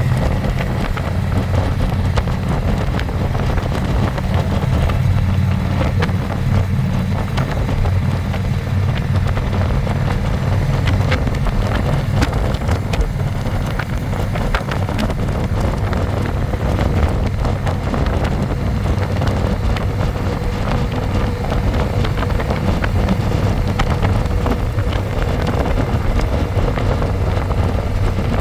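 Harley-Davidson Electra Glide V-twin engine running steadily at cruising speed, heard from the pillion seat, with wind buffeting the microphone.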